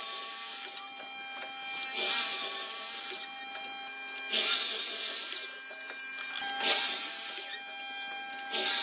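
Hand tool working wood in repeated hissing strokes, one about every two seconds, each lasting under a second.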